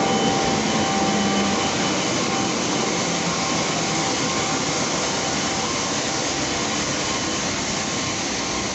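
Steady rushing noise of a passenger train at the platform, with a few faint steady tones, slowly easing off.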